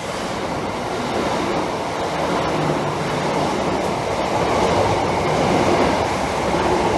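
Class 375 Electrostar electric multiple unit running through the station at speed without stopping. The rumble and rush of its wheels on the rails builds over the first second or so, then stays loud as it passes.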